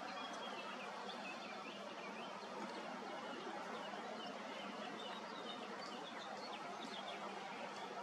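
Faint, scattered high bird chirps over a steady outdoor hiss.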